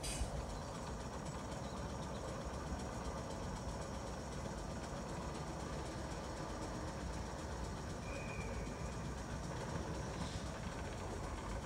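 Electric suburban trains at a station platform: a steady low rumble from a train standing at the platform while another approaches, with a short high tone about eight seconds in.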